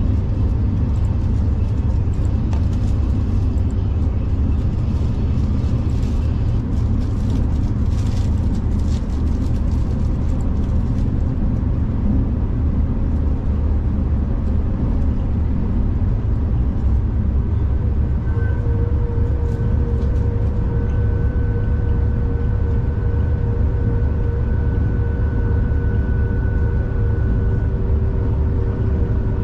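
V/Line train running: a steady low rumble, with a spell of clicking and rattling from about six to eleven seconds in, and a steady whine joining about eighteen seconds in.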